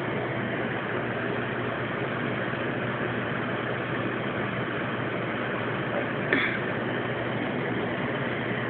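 Microwave oven running with a steady hum, with one short brief sound about six seconds in.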